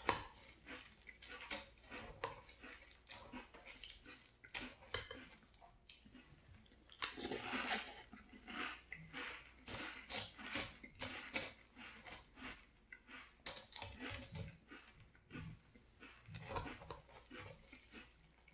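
Close-miked chewing and crunching of frosted flakes cereal in milk, an irregular crackle of many small crunches, with a metal spoon clinking and scraping in a ceramic bowl.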